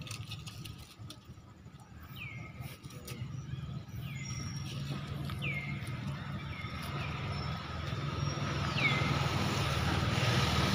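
A bird repeats a short call that slides down in pitch, about once a second, over a low steady rumble that grows louder toward the end.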